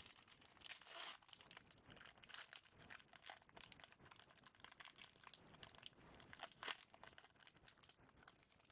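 Faint crinkling and tearing of a foil trading-card pack wrapper being opened, with small crackles throughout and slightly louder bursts about a second in and again near the end.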